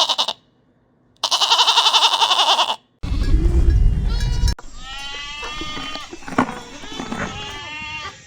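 Goats bleating: two loud, quavering bleats in the first three seconds, then a lower call. From about four and a half seconds in, several goats bleat over one another.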